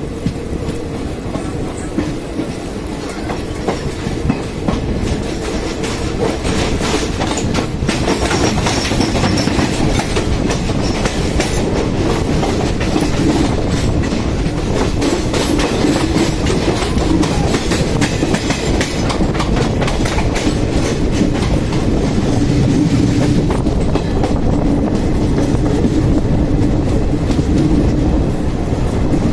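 Dakshin Express running at speed: wheels clattering over the rail joints with a steady rumble of the moving coaches.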